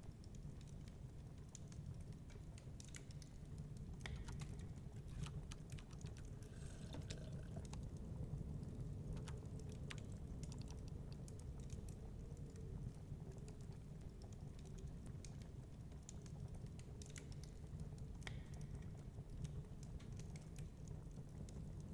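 Wood fire crackling in a fireplace, with irregular sharp pops and snaps, over a low, steady rumble of storm wind.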